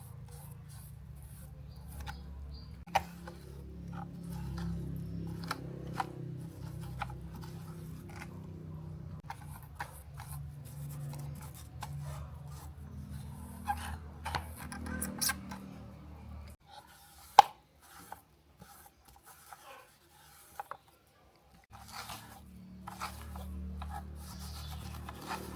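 Scattered clicks, taps and rubbing from cleaning work on a small die-cast model car, over a low steady hum that drops out for a few seconds about two-thirds of the way through.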